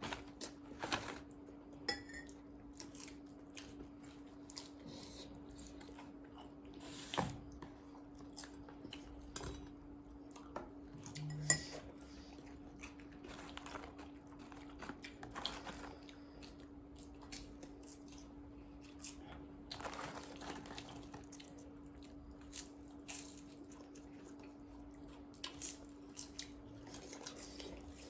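Eating sounds: chewing and crunching, with scattered clinks of cutlery against dishes, over a faint steady hum.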